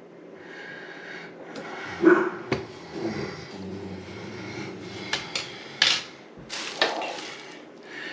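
Several short knocks and clinks of small faucet cartridge parts being handled and set down.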